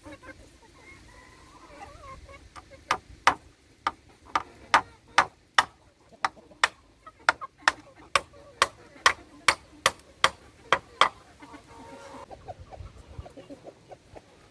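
A steady run of sharp blows, about two a second, starting about three seconds in and stopping near eleven seconds, with chickens clucking in the background.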